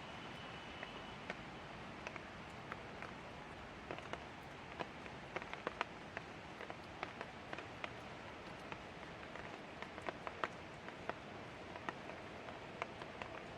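Light rain falling: a steady soft hiss with many individual drops ticking sharply and irregularly on a nearby surface.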